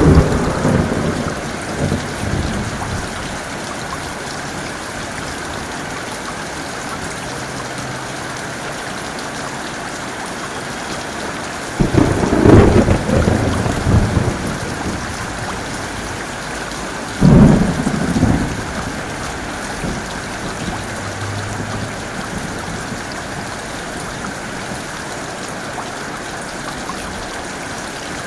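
Heavy rain falling steadily, with thunder: a rumble dies away at the start, then two sudden thunderclaps come about twelve and seventeen seconds in, each rumbling on for a second or two.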